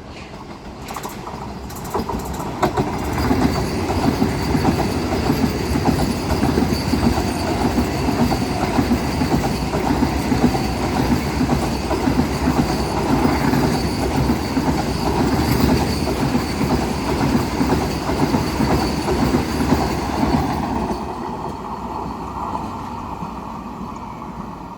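Express train passing through the station at speed without stopping, its wheels clattering over the rail joints. The rumble builds over the first two seconds, holds steady, and fades away after about twenty seconds.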